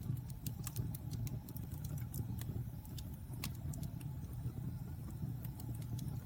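Wood fire burning in a fireplace, crackling with irregular sharp pops, a dozen or so, over a steady low sound of the burning.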